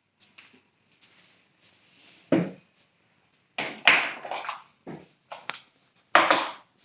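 Irregular clattering and scraping of objects being handled, in short bursts, with a sharp knock about two seconds in and louder clusters of clatter later on.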